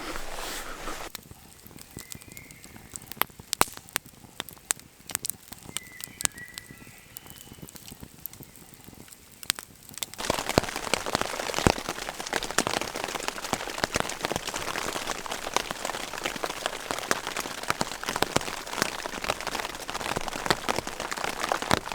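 Rain falling on a tarp shelter: scattered drops at first, then about ten seconds in it turns into a steady, much louder downpour.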